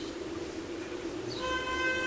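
A horn sounds one long steady note from about one and a half seconds in, over a constant low hum. A short, high, falling call comes just before it.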